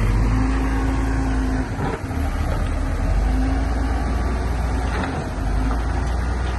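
Heavy diesel earthmoving machinery running steadily under load, with a low engine rumble that dips briefly twice.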